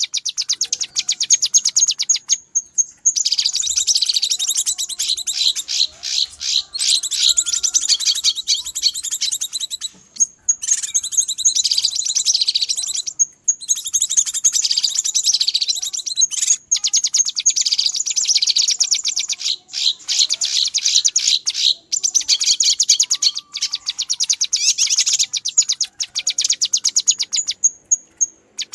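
Cucak kinoi calling in a fast, noisy, agitated chatter of rapid trills, the excited calling used as a lure for wild kinoi. The chatter comes in long runs broken by short pauses.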